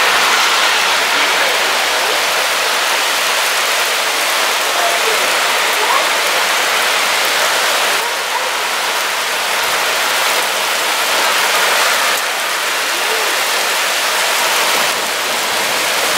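Heavy rain pouring down in a steady hiss of drops splashing on pavement and tree leaves.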